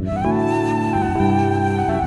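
Ney, the Turkish end-blown reed flute, playing a slow melody: just after the start a note slides up and is held, over lower held notes that shift every half second or so.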